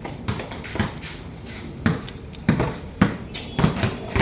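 Basketballs bouncing on a court floor: a series of sharp thuds at uneven intervals, about a dozen in four seconds.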